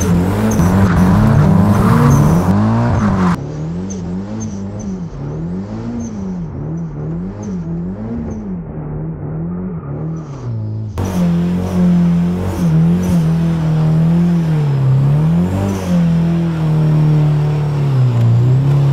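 Turbocharged SR20DET four-cylinder of a 1990 Nissan 240SX revving hard, its pitch sweeping up and down again and again. The sound changes abruptly twice, about three and eleven seconds in.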